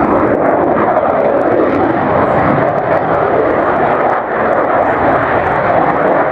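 Fixed-wing jet aircraft flying in a display, its engines giving a loud, steady roar.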